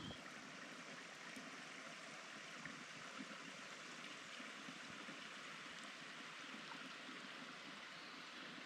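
Steady rush of running water, even and unbroken, with a few faint ticks.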